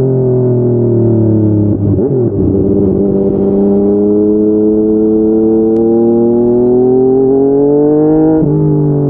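Yamaha MT-09's inline three-cylinder engine through a Yoshimura R55 slip-on exhaust, accelerating under load. Its pitch drops sharply at an upshift about two seconds in, climbs steadily through a long pull, then drops again at another upshift near the end.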